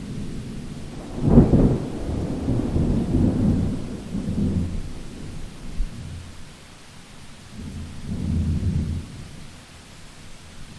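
Thunder during a rainstorm: a sharp clap about a second in rolls into a low rumble for several seconds, and a second rumble swells and fades near the end, over steady rain.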